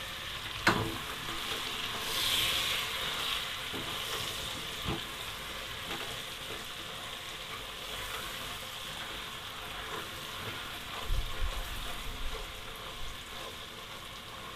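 Prawns in a thick coconut-milk and spice masala bubbling and sizzling in a non-stick pot as a spatula stirs them. There is a sharp knock about a second in and a few knocks of utensil on pot later on. The prawns have just cooked through.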